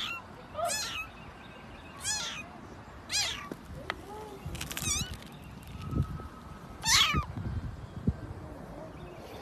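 A cat meowing repeatedly: about six short, high-pitched meows, irregularly spaced a second or two apart, with a few faint low knocks in between in the second half.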